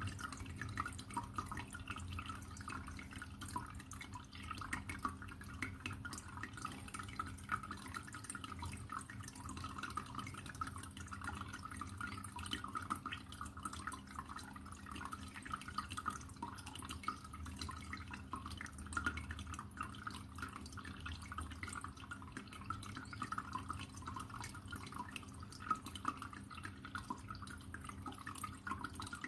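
Water trickling steadily, with dense small drips and splashes, over a low steady hum.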